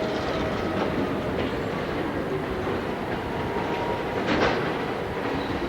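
Freight train rolling, its car wheels clicking over the rail joints, with a sharp metallic clank about four seconds in.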